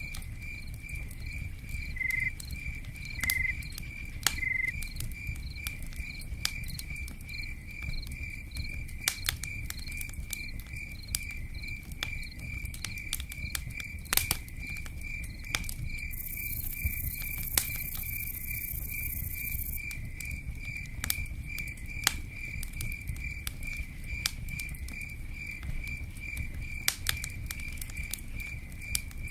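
Campfire crackling with scattered sharp pops over a low rumble, while a cricket chirps steadily in fast, even pulses. About halfway through, a high hiss joins for a few seconds.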